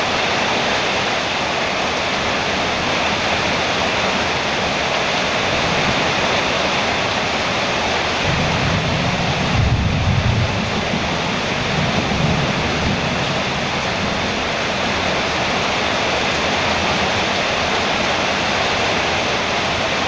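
Heavy rain drumming steadily on a metal roof. Around the middle, a low rumble of distant thunder swells and fades.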